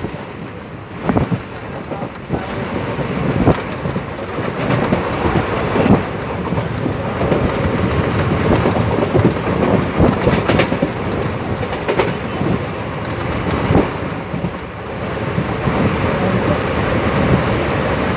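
Moving train heard from inside a carriage: a steady loud rumble and rush with many irregular knocks and rattles.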